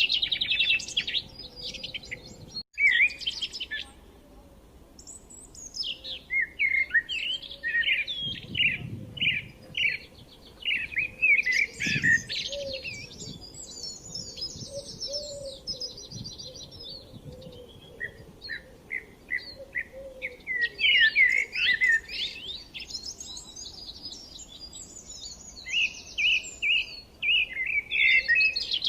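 Several small birds chirping and singing in quick repeated phrases, with fast trills near the start and end and quieter gaps between bursts.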